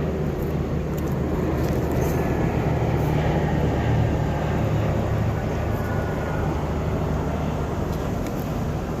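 Steady low mechanical rumble with a constant low hum.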